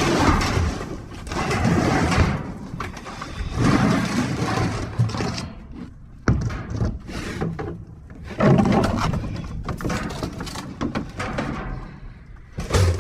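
Scrap being shifted and pulled about by hand inside a dumpster: irregular bursts of scraping, rustling and clattering, with a sharp knock about six seconds in.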